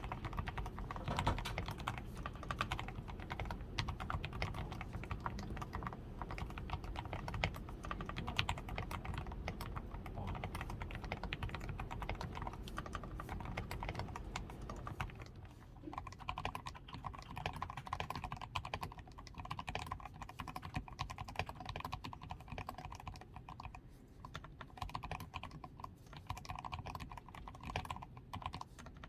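Continuous typing on a DAREU A87 Pro mechanical keyboard, its switches and stabilisers fully lubed with Krytox 105, PCB tape-modded, with XDA keycaps. The keystrokes come in a dense, fast run and get softer about halfway through.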